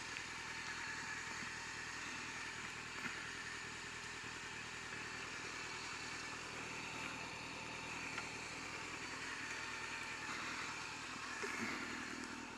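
Honda CBR600F4i sport motorcycle's inline-four engine running steadily while riding, heard from a helmet-mounted camera over a steady hiss.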